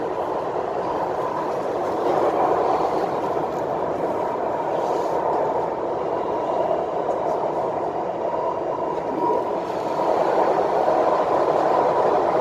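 MTR West Rail Line C-Train (D427) running between stations, heard from inside the carriage: a steady rumble of wheels on rail and running gear with a faint steady whine.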